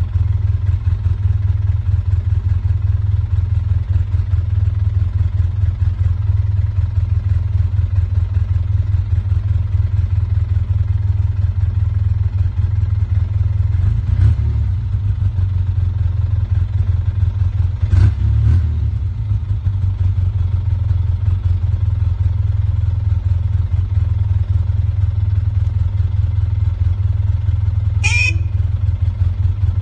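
Steady low rumble, with a couple of brief knocks midway and a short sharp sound near the end.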